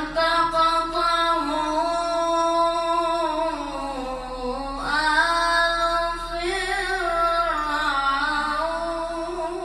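Male Quran reciter's voice in melodic tajwid recitation, holding and gliding long notes with rich ornamentation; the line sinks, then a new phrase rises about five seconds in.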